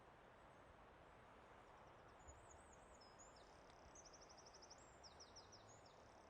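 Faint forest ambience: a steady soft hiss, with a small songbird singing high, quick twittering phrases of chirps, a rapid trill and down-slurred notes, starting about two seconds in.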